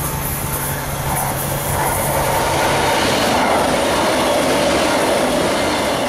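A double-deck regional push-pull train with an electric locomotive at the rear passing close by, with loud, steady rolling wheel-on-rail noise. A steady low hum underneath stops about three seconds in.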